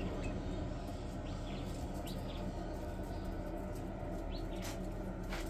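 Birds chirping faintly in a coop: a few short, scattered high chirps over a steady low hum.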